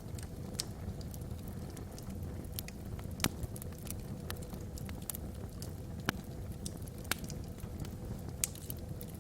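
Wood fire burning in a fireplace: a steady low rumble under irregular sharp crackles and pops from the logs, a few louder snaps among them.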